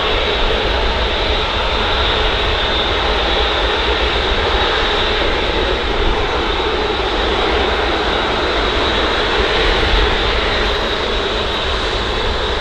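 Airbus A380's four jet engines running steadily as it taxis, an even rushing whine, with a low rumble of wind on the microphone underneath.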